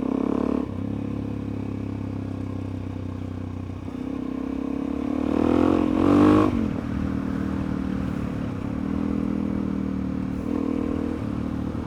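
Suzuki DR-Z400E single-cylinder four-stroke engine running at low speed on a rough dirt road, with some clatter. About five seconds in it revs up to a brief peak, then drops back to a steady low run.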